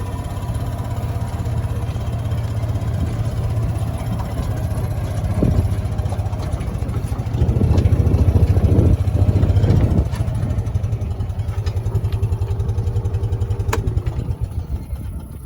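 Vehicle engine running steadily close by with an even low putter, louder for a couple of seconds about halfway through, then dying away near the end.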